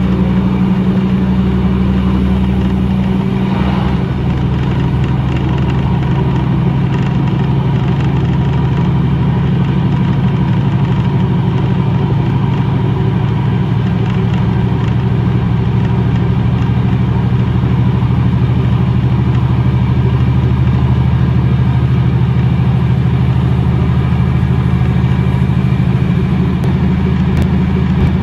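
Steady running noise inside a moving passenger train: an even rumble with a constant low hum, unchanging throughout.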